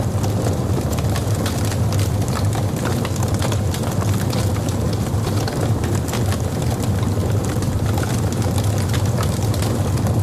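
Logs burning in a fireplace: a steady low rumble of the fire with many irregular sharp crackles and pops from the burning wood.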